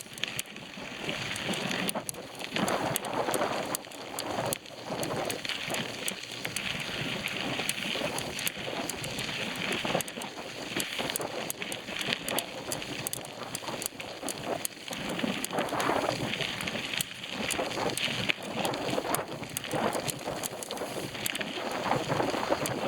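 Wind buffeting the microphone while riding a bicycle, with rushing tyre and trail noise and scattered small clicks and rattles.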